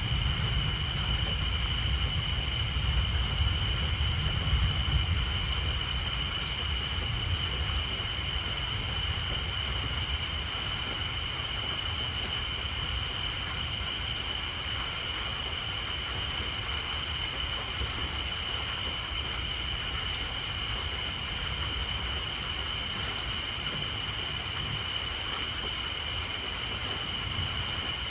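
Steady rain on a tin roof with faint scattered drop ticks, under a constant high-pitched chorus of tree frogs. A low thunder rumble dies away over the first several seconds.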